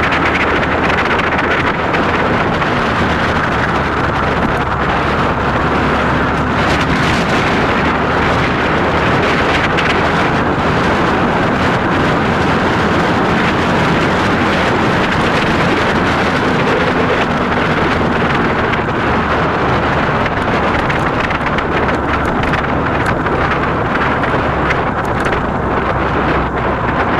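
Motorcycle engine running at a steady speed while riding, under heavy wind noise buffeting the microphone.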